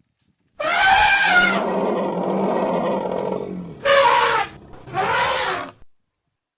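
Elephant calls: a high call with many overtones about half a second in that runs into a longer, lower call, then two short calls about a second apart.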